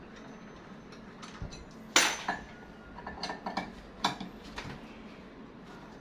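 Hard objects clinking and knocking together, one loud knock about two seconds in, then a quick run of lighter clinks and a second knock, like metal parts or tools being handled while a washing machine is taken apart.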